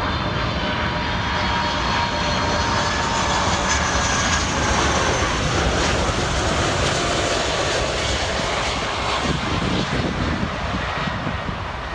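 Jet airliner's engines as it passes on landing: a loud, steady engine noise with a high whine over it, easing off near the end.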